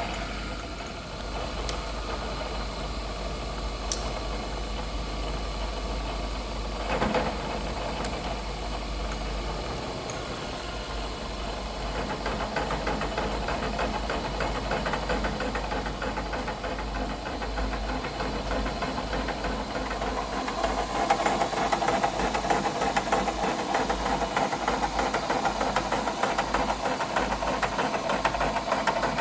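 Machine spindle turning an adjustable boring head with an ECGT insert as it takes roughing cuts in a steel eye bore: a steady machining hum with a fast rattle that grows louder over the last third, and a single clunk about seven seconds in.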